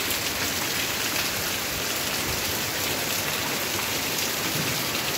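Steady, heavy rain falling on a wet cobblestone street, an even, dense wash of rain noise.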